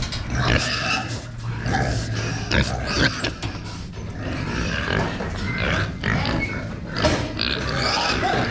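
A group of pigs calling over one another, with short high-pitched calls mixed into the noise, and scattered knocks. A low steady hum lies under it and stops about two and a half seconds in.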